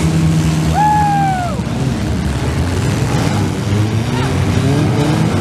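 Several compact demolition-derby car engines revving hard together. One is held at high revs and drops away about a second and a half in, and the others keep rising and falling.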